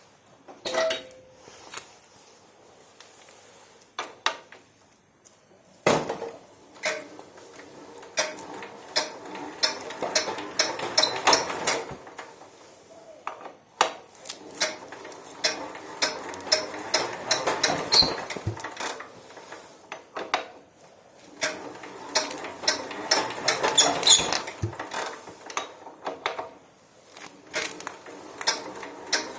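Cold Yanmar Prince YT500 diesel tiller being cranked to start, in three spells of rattling clatter several seconds long with short pauses between them, not yet running steadily.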